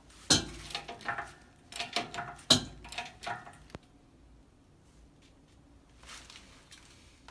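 Metal clanking under a car: a cluster of sharp knocks and clatters of tools against steel, with brief ringing, the loudest about a third of a second in and about two and a half seconds in, then stillness for the last few seconds.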